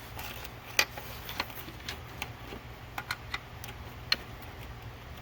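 Irregular sharp clicks and ticks of a pick prying at a plastic fuel-injector electrical connector to release its clasp, two of them louder, about a second in and near the end, over a steady low hum.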